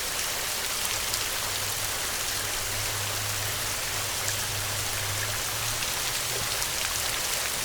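Steady rain falling, an even hiss with scattered drop ticks. A faint low hum lies underneath for a few seconds in the middle.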